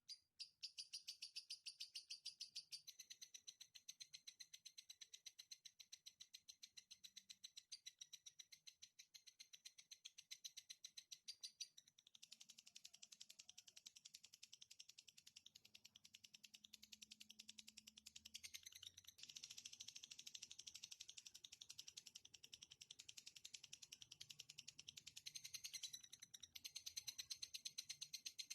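Faint songbird trill played as a masteran (training song for cage birds): a long, rapid run of evenly spaced high chips that shifts to a new phrase every few seconds.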